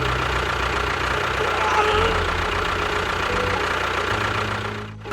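An engine idling with a low, even knock, its pitch shifting in steps a couple of times and fading out near the end.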